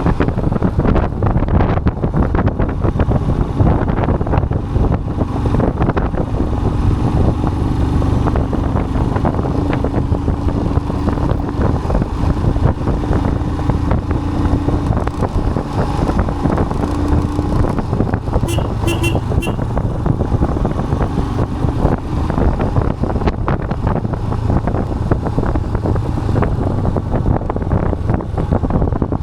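Vehicle road noise and a steady rumble with wind buffeting the microphone, and a quick run of short horn beeps about 19 seconds in.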